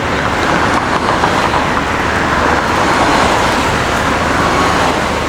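City street traffic noise: a vehicle passing close by, its noise swelling to a peak about three seconds in and then easing off.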